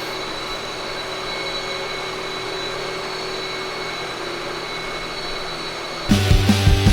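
Steady rushing shop background noise with a faint, even high whine. About six seconds in, loud rock music with heavy drums and bass cuts in.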